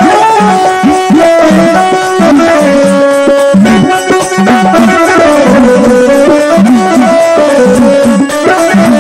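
Instrumental Marathi folk music: a hand drum plays bass strokes that bend in pitch under a melody of held notes stepping up and down, with no singing.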